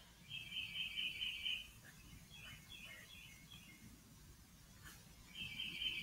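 A songbird calling: two rapid trills of quickly repeated notes at one pitch, each about a second and a half long, about five seconds apart, with short scattered chirps between them.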